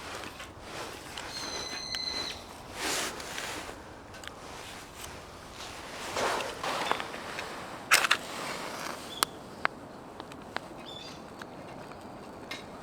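Outdoor rustling and handling noises with several sharp clicks, and a short high whistle about a second and a half in.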